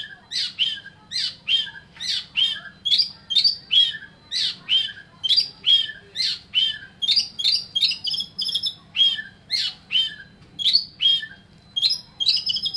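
Oriental magpie-robin calling in full voice: a rapid, unbroken series of short, harsh notes, each sweeping downward, about three a second.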